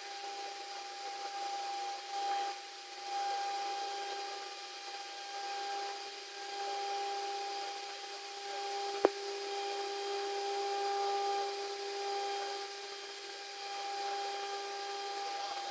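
CNC router spindle running with a steady whine while machining wood, its loudness swelling and easing as the cut goes on. A single sharp click about nine seconds in.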